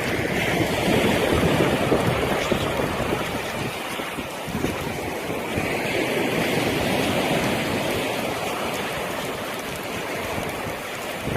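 Sea waves washing onto a beach, the rush swelling and easing, with wind noise on the microphone.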